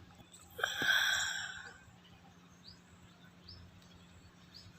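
A breathy rush of noise lasting about a second, starting just over half a second in, then faint, short bird chirps repeating in the background.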